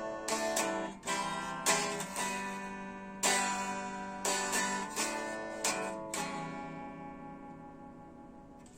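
Acoustic guitar playing the closing bars of a song: a string of plucked notes and chords, each ringing out, the last one about six seconds in left to fade away.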